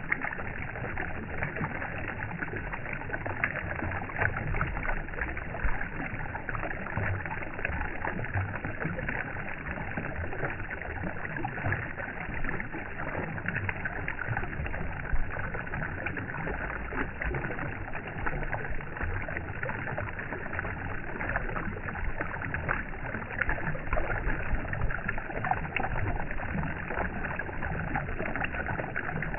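Water running and splashing steadily, with many small splashes and a low rumble underneath.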